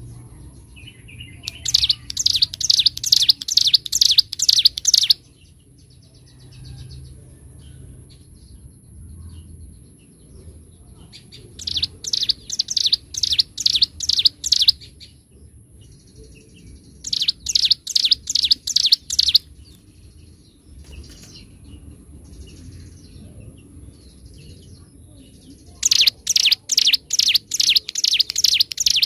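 Ciblek gunung songbird singing in loud bouts of rapidly repeated high, sharp notes, about three to four a second for roughly three seconds at a time, four bouts in all, with faint softer chirps in between; the last bout is still going at the end.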